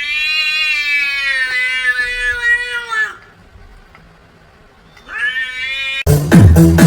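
Domestic cat giving one long drawn-out yowl of about three seconds, then a shorter rising second yowl after a pause. Loud electronic music with a beat cuts in near the end.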